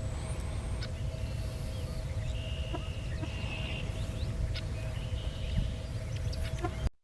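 Several birds giving short, repeated high calls, each about half a second long, with a thin whistle near the start, over a low steady rumble. The sound cuts off abruptly just before the end.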